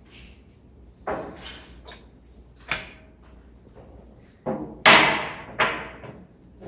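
A series of about five sharp knocks and clanks as brake parts and tools are handled during a brake pad job. The loudest comes about five seconds in, just after another, and each one dies away quickly.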